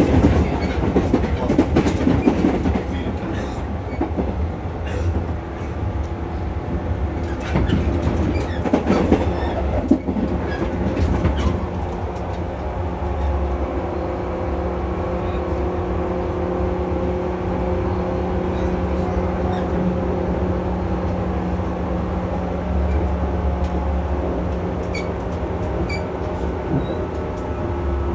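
Onboard sound of a JR West 115 series resistor-controlled electric train: running noise with wheels knocking over rail joints for the first dozen seconds, then a steady hum with little clatter.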